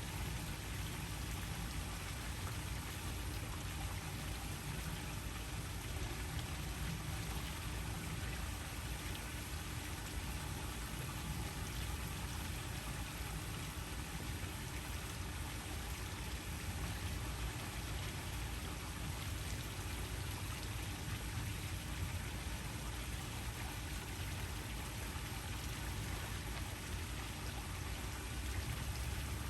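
Waterfall: steady rushing, splashing water noise with no breaks.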